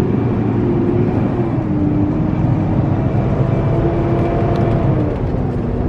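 Semi truck's engine and road noise heard inside the cab while driving: a steady low drone with a humming tone that drops slightly in pitch twice.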